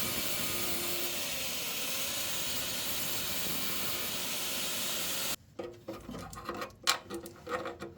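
MIG welder laying a bead on car body sheet steel: a steady sizzling hiss for about five seconds that cuts off suddenly, followed by a few light clicks and knocks of metal and tools being handled.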